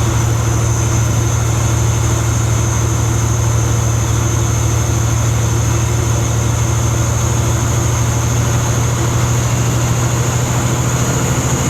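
Kenworth W900 semi truck's diesel engine running steadily with a deep, even hum, and a thin high-pitched whine held over it.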